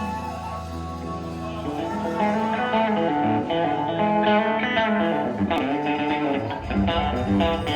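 Guitar-led music with a bass line: held chords for about the first second and a half, then a busier run of picked guitar notes.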